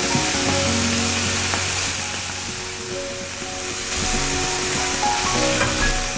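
Sliced pork sizzling and frying in an iron frying pan, stirred and turned with chopsticks. A steady sizzle, with background music over it.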